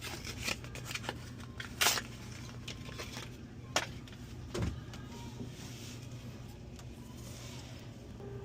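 Steady low hum of running machinery, with a few sharp clicks and knocks from metal parts being handled, about two, four and four and a half seconds in.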